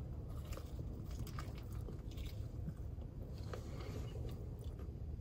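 A person biting into and chewing a chicken tender wrap (flour tortilla, lettuce, chicken and ranch), faint, with scattered small clicks of the chewing.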